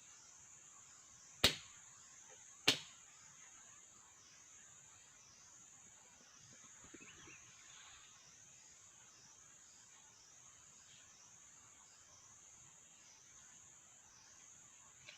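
Steady high-pitched insect chorus, pulsing about twice a second. Two sharp knocks, the loudest sounds, come about a second and a half in and again a second later.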